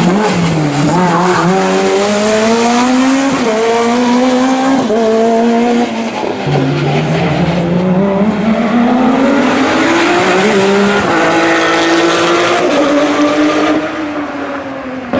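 Race car engine run hard on a slalom course, revs climbing and dropping again and again with gear changes and lifts off the throttle. The sound fades near the end as the car moves away.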